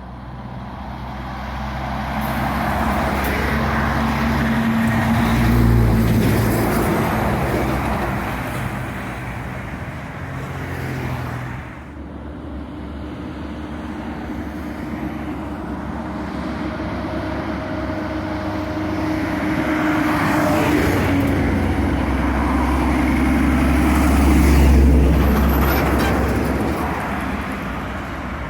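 Diesel tractor-trailer trucks pulling double trailers drive past with engines running. The first grows louder to a peak about six seconds in, then fades; a second pass builds to a louder peak near the end.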